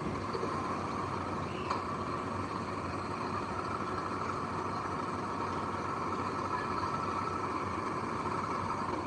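Heavy earthmoving machine's diesel engine running steadily, with a brief click a little under two seconds in.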